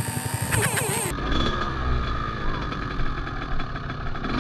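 Dirt bike engine running steadily at low revs, starting abruptly about a second in.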